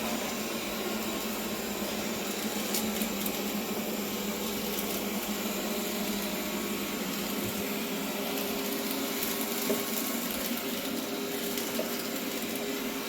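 bObsweep PetHair SLAM robot vacuum running as it cleans, a steady whirring noise with a constant low hum and a few faint ticks.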